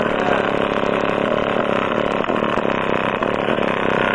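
PPI 10-inch car-audio subwoofer, run free-air off a Kicker 1200.1 amplifier, playing a loud, steady, heavily distorted bass tone. Its cone is torn through and the driver is being overpowered toward failure.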